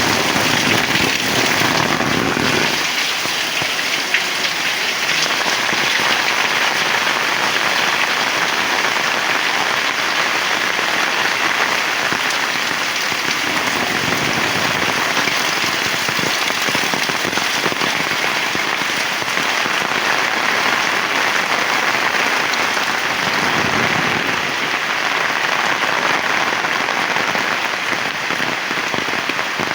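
Heavy rain falling steadily, a dense even hiss of drops on surfaces, with a deeper rush for the first couple of seconds.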